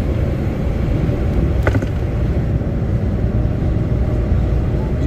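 Truck driving on the road, heard from inside the cab: a steady low engine and road rumble, with a single short click about a third of the way in.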